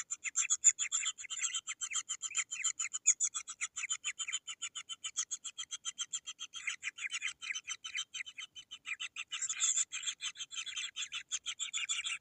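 Kingfisher nestlings begging for food: a rapid, unbroken train of short, harsh rasping calls, several a second, from hungry chicks clamouring together.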